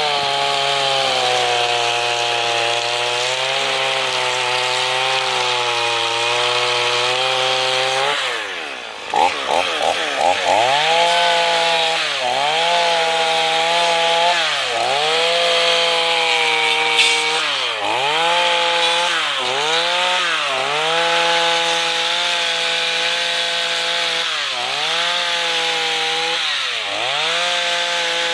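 Chainsaw engine running at high revs with a carving gouge attachment cutting into wood. Its pitch sags each time the cutter bites and climbs back as it clears, over and over, with a deeper drop about eight seconds in.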